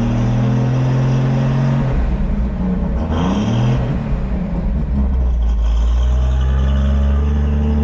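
Ford Crossflow engine in a Toyota Dyna ramp truck running while it warms up. It is blipped up and back down about three seconds in, then settles to a steady idle.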